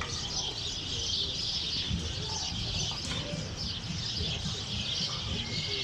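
A dense chorus of many small birds chirping and twittering without a break, with a low rumble beneath.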